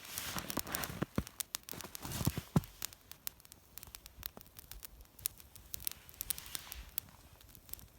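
Dry grass crackling as it burns in a small campfire of damp twigs: irregular small pops and clicks, thickest in the first few seconds and thinning out after. The wood itself has not caught; only the grass is burning.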